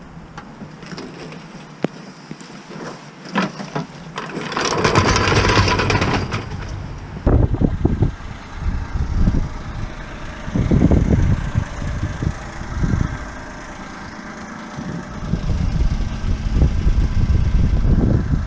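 Peugeot 107's 1.0-litre three-cylinder petrol engine running, its loudness swelling and falling in waves. A rush of hissing noise comes about five seconds in, before the engine sound takes over.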